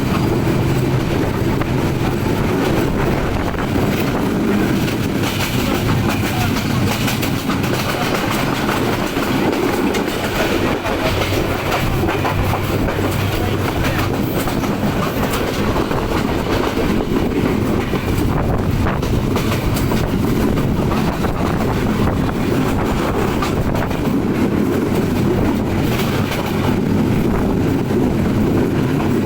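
Nilsagar Express train running steadily along the track: a continuous rumble with the clatter of wheels over rail joints.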